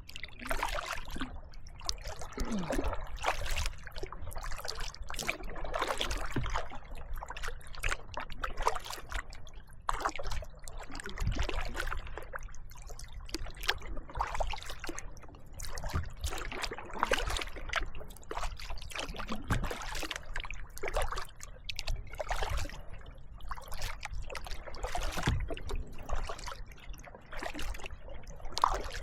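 Kayak paddling: the paddle blades dip and splash in the water, with water trickling off them, about one stroke every second or two.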